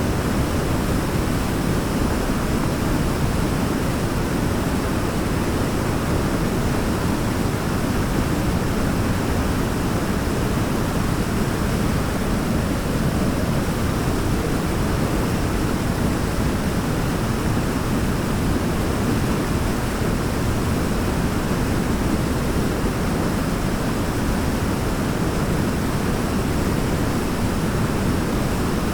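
Waterfall: falling water making a steady, even rush, strongest in the low range, with no separate splashes or changes.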